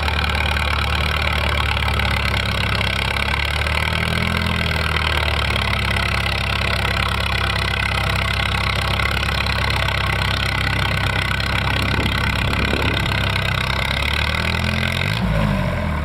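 A tractor engine running steadily, with brief shifts in pitch about four seconds in and again near the end.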